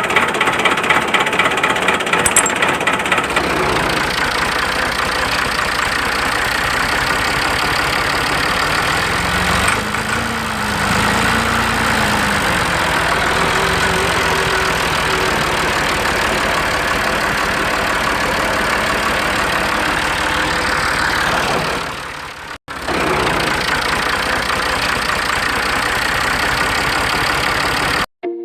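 A motor running steadily, with a rhythmic chugging pulse in the first few seconds; it drops away and breaks off briefly about two thirds of the way through, then carries on.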